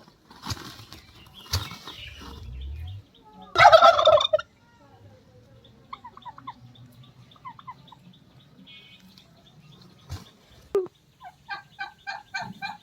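Turkeys calling: a loud rattling gobble about three and a half seconds in, softer short calls after it, and a quick run of repeated calls, about five a second, near the end. A few knocks come in the first two seconds.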